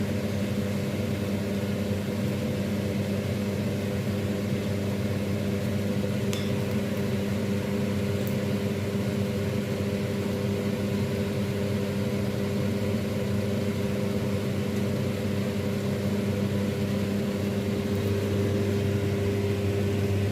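Steady mechanical hum at an even low pitch, unchanging throughout, with one faint brief high-pitched sound about six seconds in.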